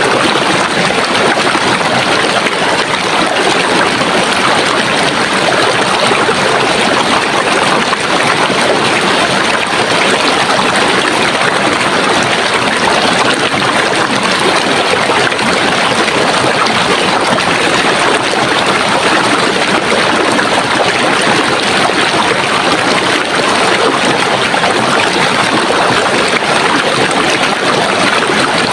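Running water: a stream flowing in a steady, even rush.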